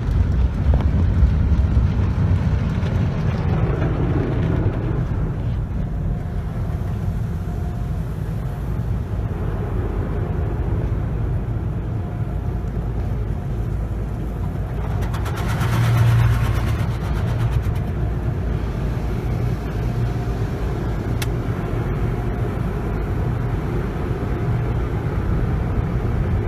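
Tunnel car wash heard from inside the car: the top and rocker cloth brushes scrub the body over a steady rumble of wash motors and water. About halfway through there is a louder spell of rapid slapping and spray.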